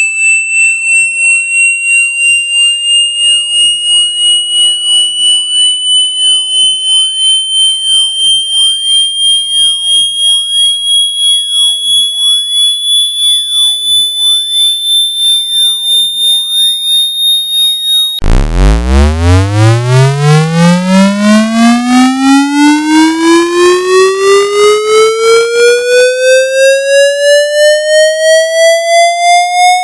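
Synthetic water-eject speaker-cleaning tone. A high, pure tone rises slowly in pitch, pulsing about two and a half times a second. About 18 seconds in it cuts abruptly to a buzzy tone that sweeps up from a deep low pitch to a mid pitch, still pulsing.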